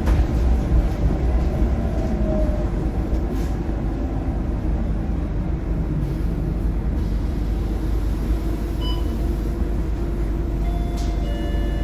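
Scania K230UB bus's five-cylinder Scania DC9 diesel engine running steadily with a deep low rumble. A sharp click comes right at the start, and faint steady tones join near the end.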